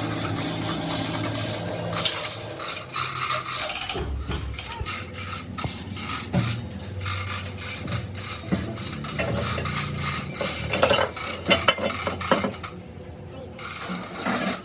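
Metal tools and parts clinking, knocking and scraping during axle and wheel-hub repair work, with a steady low hum underneath.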